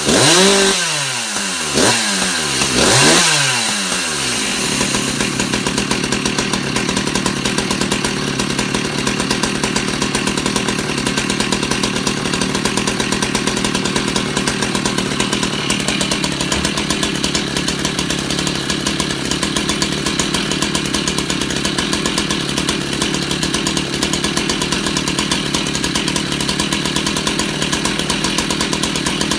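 Echo CS-600P two-stroke chainsaw revved up and back down about three times, then settling into a steady idle.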